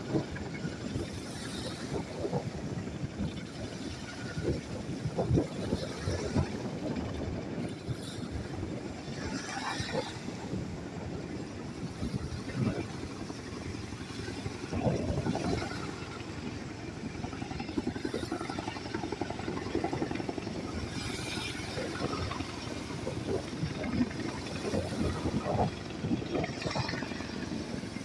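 Firefighting helicopter's rotor and engine noise, a steady low noise with uneven swells.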